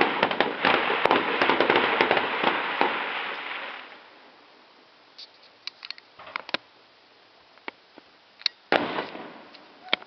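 Fireworks crackling densely, many sharp pops at once, dying away about four seconds in to scattered single pops, with one louder pop and a short crackle near the end.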